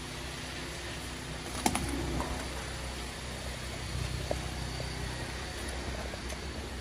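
BMW X3 idling, a steady low rumble, with one sharp click about two seconds in.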